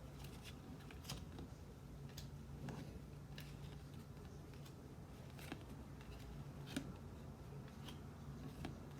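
Faint, scattered clicks and light taps of trading cards being handled and flipped through, over a steady low hum.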